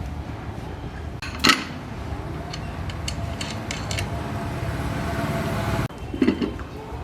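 Metal parts clinking and clanking while working on a home-built go-kart, with one sharp, loud clank about one and a half seconds in and a few lighter clicks after it, over a steady low hum.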